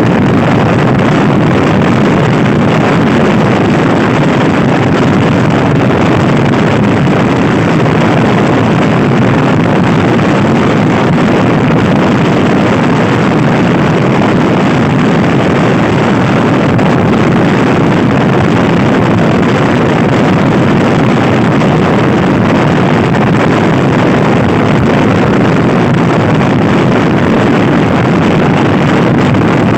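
Loud, steady wind noise buffeting the microphone of a Honda Scoopy-i scooter ridden fast, with the scooter's engine running underneath.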